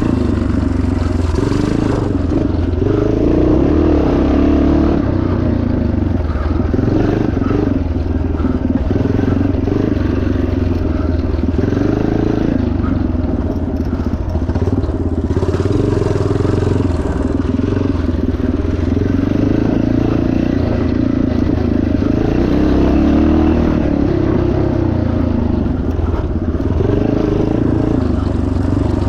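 1977 Yamaha TT500's single-cylinder four-stroke engine running loud and continuously under a rider's throttle, its pitch rising and easing every few seconds.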